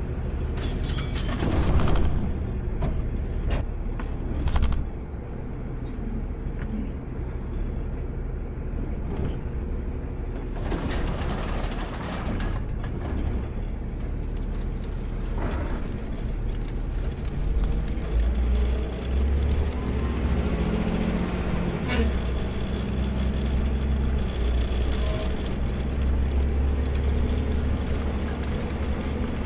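Automated side-load garbage truck's diesel engine running, heard from the driver's cab, with a few short hisses and clunks in the first half. Past the middle the low engine hum grows louder and steadier.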